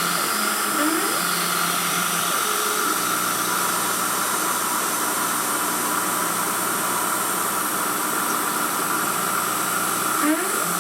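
Emco F1 CNC milling machine running with a steady motor whine. Short rising whines from the axis drives come about a second in and again near the end.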